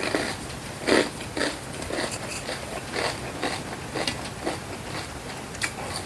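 Close-up chewing and mouth sounds of a person eating a spicy Thai pounded salad: short wet bites and smacks, irregular, about two a second.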